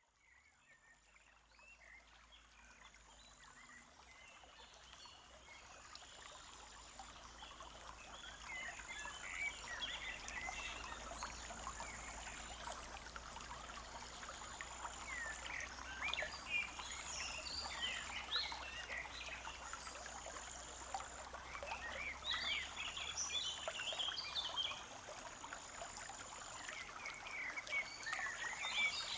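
Forest stream babbling and trickling, fading in over the first several seconds, with birds chirping and a high thin note repeating every couple of seconds.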